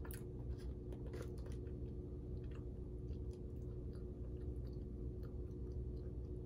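A person chewing a mouthful of apple pie, with faint, scattered small mouth clicks. A steady low hum runs underneath.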